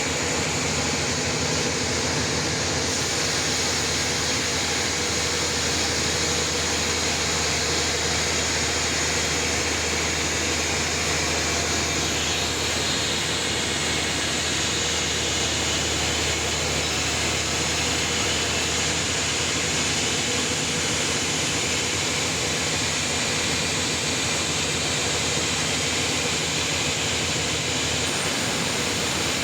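Sawmill cutting through a large trembesi (rain tree) log: a loud, steady sawing noise over a constant motor hum, unchanging throughout.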